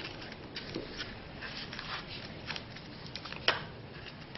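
Faint handling noise of small plastic parts: light clicks and rustles as the drone's battery and Velcro strap are fitted, with one sharper click about three and a half seconds in.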